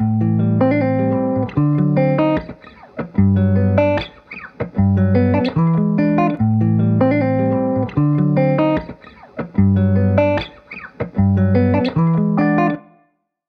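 Background music: an instrumental track of steady pitched notes in short repeating phrases, which stops shortly before the end.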